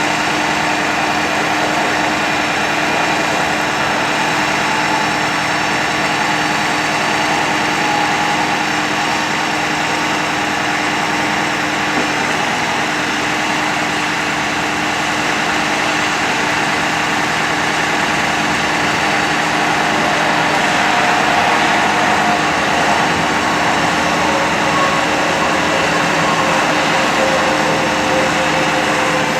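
A 2009 Ford F-550 bucket truck's engine running steadily at idle with the PTO engaged to drive the ETI boom's hydraulic pump. In the second half a faint whine shifts in pitch as the load changes.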